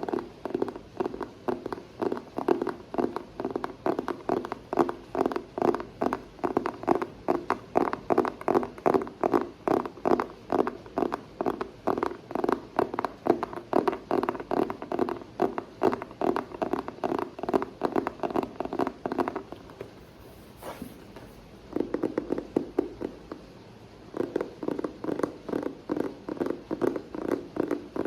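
ASMR tapping: fingers tapping quickly and steadily on an object, a continuous run of short taps several a second. It stops for about two seconds past the middle, then starts again.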